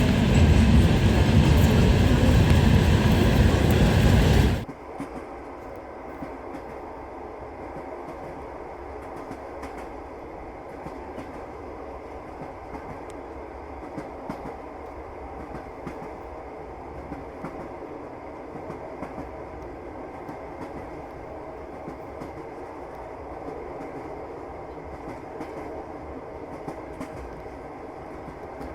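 Passenger train running on rails, heard from aboard: a loud, dense rumble that drops suddenly about four and a half seconds in to a steadier, quieter rumble with faint clicks of the wheels over the rail joints.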